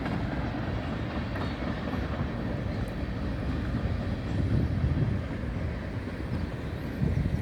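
Freight train of empty ethanol tank cars rolling past, its wheels on the rails making a steady rumble that swells slightly in places.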